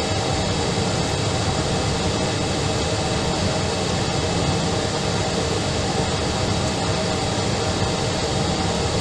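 Steady drone of an Airbus A319 airliner in flight: an even, unbroken rush of airflow and engine noise with faint steady tones in it.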